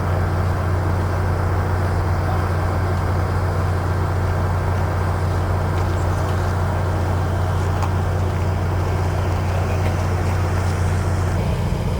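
A steady, low mechanical drone with a deep hum and a noisy hiss above it, shifting slightly near the end.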